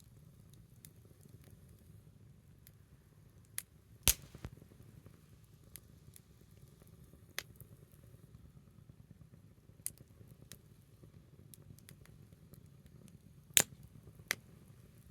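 Small wood fire burning low: a soft steady rustle with scattered sharp crackles and pops, two loud pops about four seconds in and near the end.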